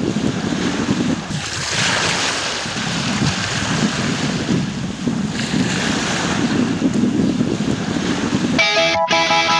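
Steady rushing noise of wind and surf, swelling about two seconds in and again around five and a half seconds. Near the end it gives way abruptly to plucked guitar music.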